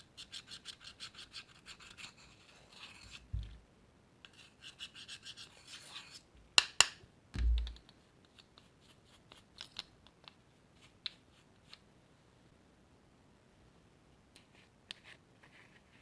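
Close-up ASMR handling noise of slime and makeup being worked by hand: rapid scratchy crackling, about seven ticks a second, in two stretches, with two sharp clicks and a couple of low bumps in the middle, then scattered faint ticks.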